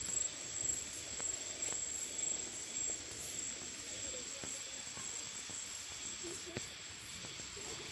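A steady high-pitched insect call, with a few light clicks and faint distant voices.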